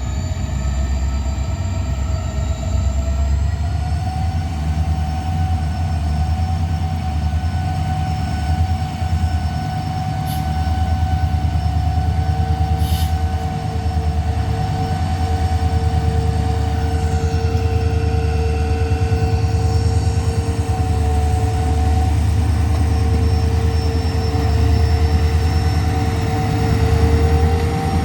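Diesel-hauled train running: a heavy low engine rumble throughout, with steady high-pitched whining tones over it, a second whine joining about twelve seconds in.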